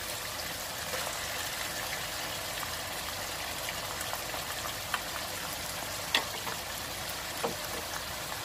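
Chicken pieces sizzling steadily in oil in a non-stick wok. Midway through, a few sharp taps and clicks come as chopped tomatoes and green chillies are scraped from a bowl into the pan with a spoon.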